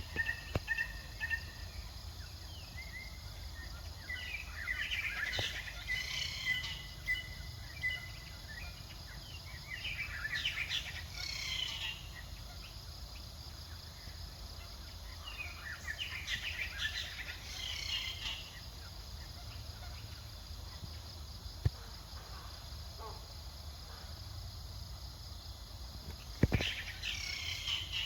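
Short spells of high chirping calls, four or five of them a few seconds apart, over steady low background noise; a sharp tap comes a little past the middle and a thump near the end.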